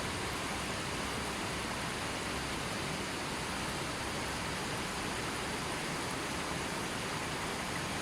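River water flowing over a shallow bed: a steady, even rushing with no birds or other sounds.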